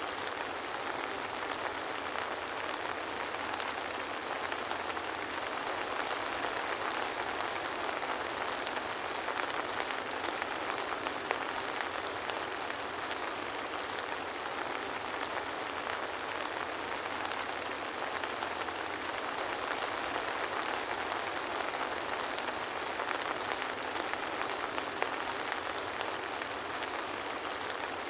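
Soft rain falling steadily, an even hiss of many fine drops pattering, with no thunder.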